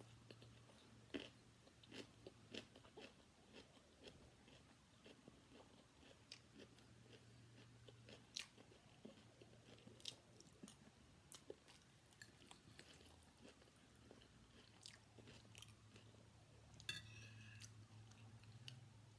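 Faint close-miked chewing of fried rice, with soft clicks of metal cutlery on a ceramic plate, and a short scrape near the end.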